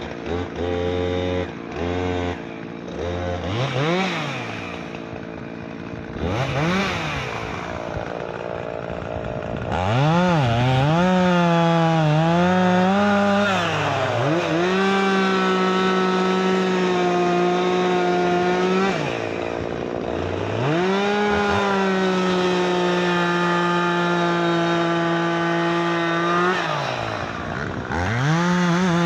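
Two-stroke chainsaw revving in short blips, then held at full throttle for two long steady stretches of several seconds each, dropping back between them, as it bucks sawmill butt ends into firewood.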